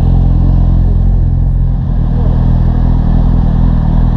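Motorcycle engine running steadily at idle, a low even drone.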